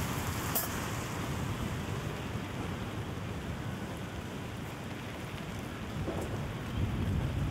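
Steady rain falling in a city street at night, an even hiss over a low background rumble.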